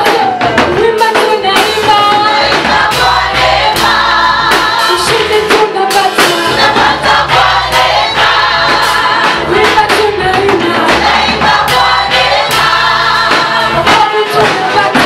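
Gospel choir singing in Swahili over a band with a steady beat and bass, the voices held in long notes.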